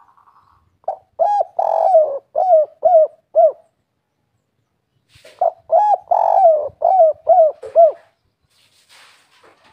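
Spotted dove (tekukur) singing the kuk-3 song: two cooing phrases about four seconds apart, each a quick series of short rounded coos with a longer coo in the middle.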